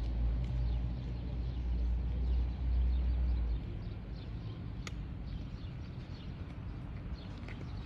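Small birds chirping, with many short quick calls over a steady outdoor hum. A deep rumble stops abruptly about three and a half seconds in.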